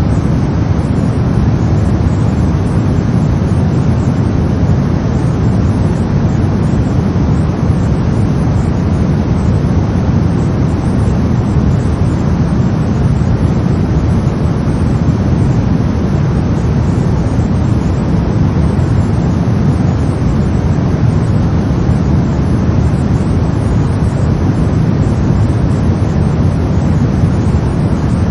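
Brown noise: a steady, deep rumbling hiss, heaviest in the low end and without any change or events.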